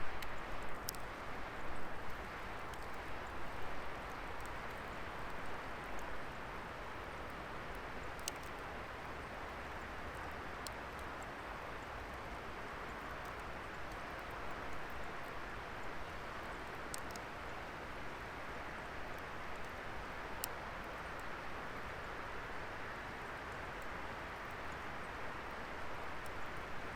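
Wood fire burning: a steady hiss of flames, with a few sharp crackling pops from the burning wood, several seconds apart.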